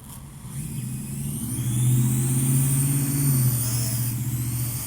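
Parrot AR.Drone 2.0 quadcopter's electric rotors whirring, a low hum with a high whine over it, growing louder for about two seconds and then easing off.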